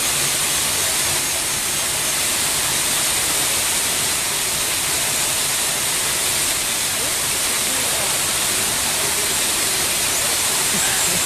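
Steady rush of a large waterfall: an even, unbroken hiss of falling water, strongest in the high range.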